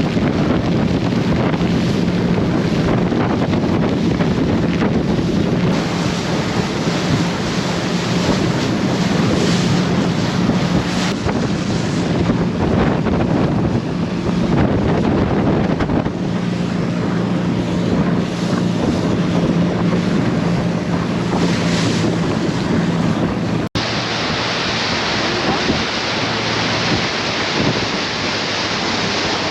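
A boat's engine running steadily under heavy wind buffeting the microphone and the rush of sea water. About 24 s in, the sound cuts abruptly to a hissier wind-and-water noise with a lower hum.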